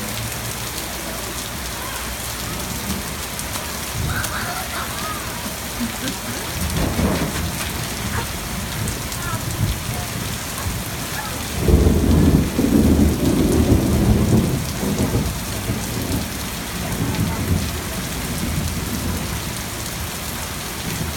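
Steady rain falling through a thunderstorm, with thunder rumbling: a low rumble about 7 seconds in, then a louder clap about 12 seconds in that rumbles on for several seconds and dies away, and fainter rumbles after.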